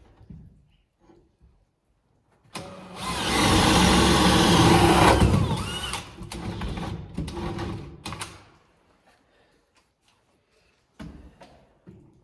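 A handheld power tool's electric motor runs hard for about three seconds, starting a few seconds in, then winds down. Knocks and clatter from work on the framing come before and after it.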